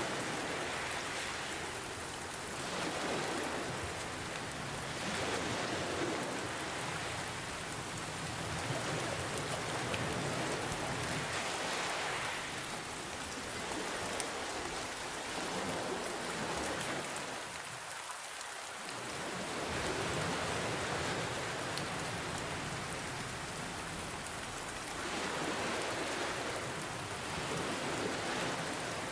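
Steady rain falling, with gentle ocean waves swelling and easing underneath every few seconds.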